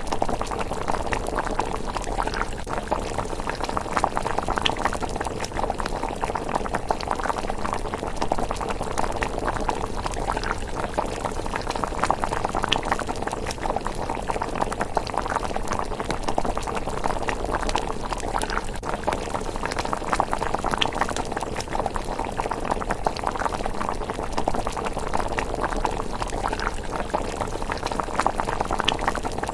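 A pot of rice porridge simmering: steady, thick bubbling with many small pops.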